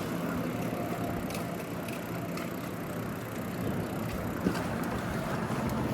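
Steady city traffic and road noise heard from a moving bicycle, with a faint steady engine-like hum for the first few seconds.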